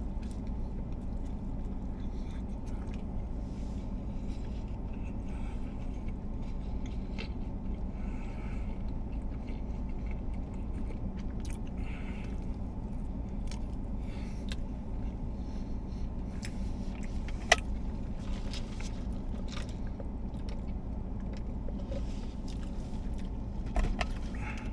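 Steady low hum of a car's cabin with the engine running, over close chewing and biting into a sub sandwich, with scattered small clicks and a sharper click about two-thirds of the way through.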